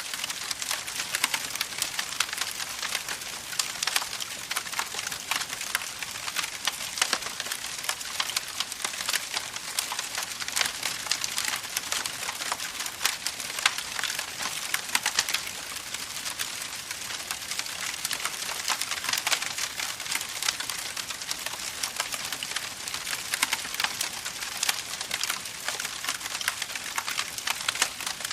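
Campfire crackling: a dense, steady run of small pops and snaps from burning wood over a soft hiss.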